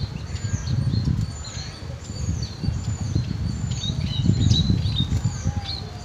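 A small bird calling a short, high chirp that falls in pitch, repeated over and over about every two-thirds of a second, with a low rumble on the microphone underneath.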